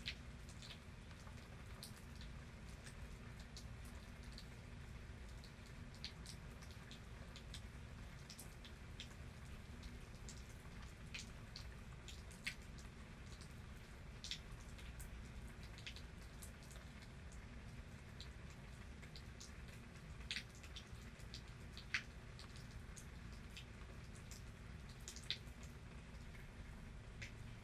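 Scattered raindrops dripping onto a surface as single irregular ticks over a faint steady low background noise, a few louder drops standing out in the second half.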